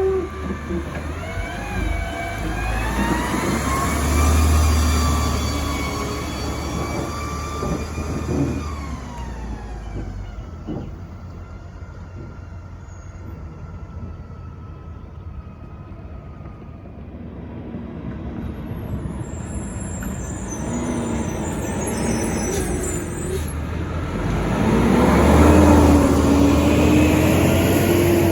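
Garbage trucks driving past, their engines rising and then falling in pitch as one goes by in the first several seconds. Another grows louder near the end.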